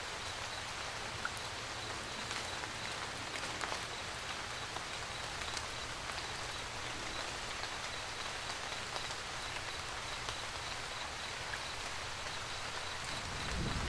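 Steady rain falling, an even patter with scattered louder drops. Right at the end a low rumble of thunder starts to swell.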